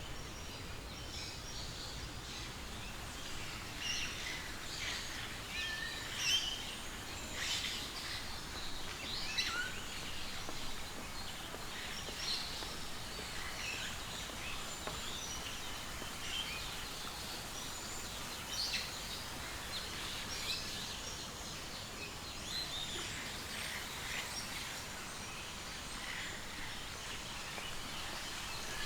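Birds chirping and calling, many short high calls scattered over a steady background hiss.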